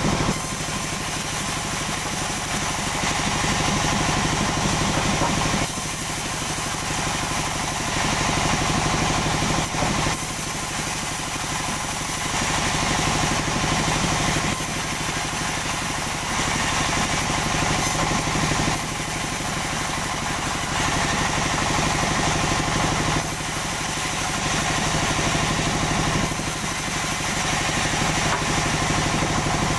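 Sawmill machinery running continuously, the engine-driven saw steady and loud, its sound changing abruptly every two to three seconds.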